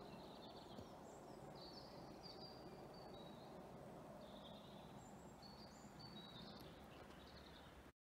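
Faint birdsong: small birds giving short, high chirping phrases over a low, steady background noise of the open air. The sound cuts off suddenly near the end.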